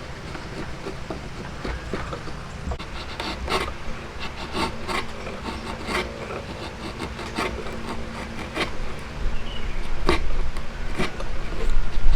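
Hand tool working wood: a run of irregular rubbing strokes on wood, growing louder near the end, over a low steady hum.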